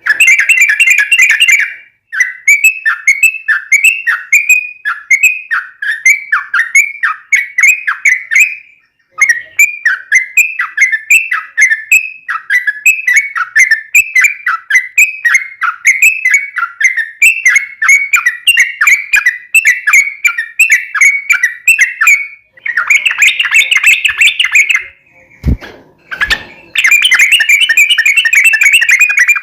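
Yellow-vented bulbul (trucukan) singing: rapid runs of short, sliding chirp notes, about three a second, in long phrases with brief pauses, turning into a denser chatter near the end. Two short knocks sound shortly before the last phrase.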